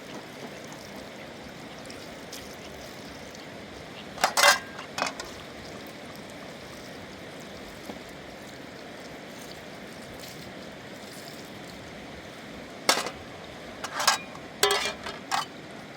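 Steady rush of river water, with sharp clinks of metal pots and dishes: a couple about four seconds in and a quick cluster near the end.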